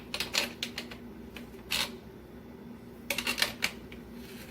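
Irregular clusters of sharp clicks and knocks from a threaded hose fitting and washer being handled and tightened onto a dishwasher water-filter adapter, over a faint steady hum.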